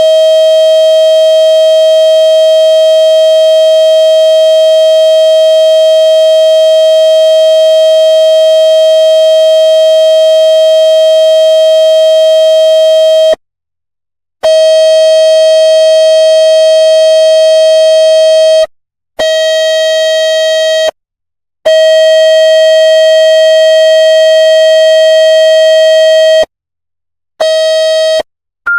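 Loud, steady electronic buzzing tone with many overtones, played to drive water out of a phone speaker. It runs unbroken for about 13 seconds, then cuts out and restarts four times with short gaps of about a second.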